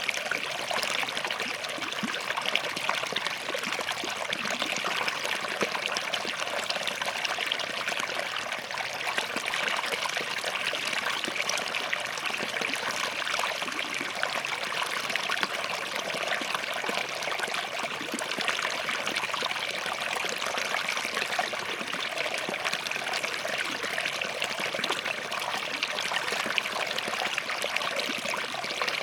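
Small forest stream flowing and trickling over rocks, a steady, even babble with fine splashing detail.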